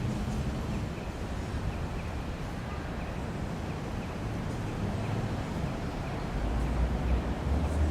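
Outdoor street background noise: a steady hiss with a low rumble underneath.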